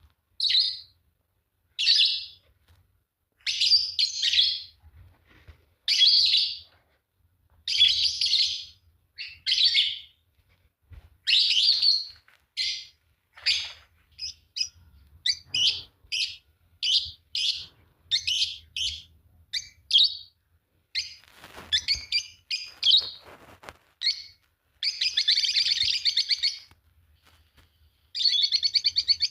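A pair of Fischer's lovebirds chirping: sharp high chirps about once a second, coming quicker around the middle, then long runs of buzzy chattering near the end.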